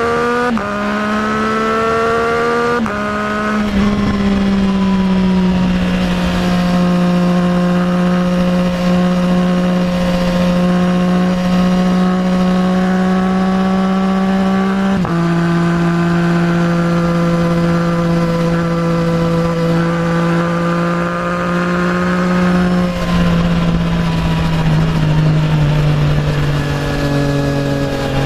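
Triumph Trident 660's inline three-cylinder engine through a full Zard exhaust, pulling hard through two quick upshifts, then holding a steady pitch. It shifts up again about halfway through, then eases off, the pitch sinking into a downshift near the end.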